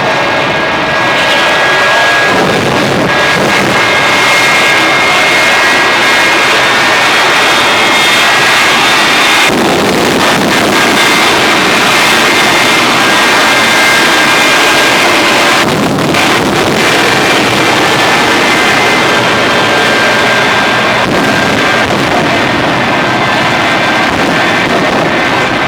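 Jet engines running loud and steady, a dense roar with a high turbine whine over it, swelling and shifting a few times.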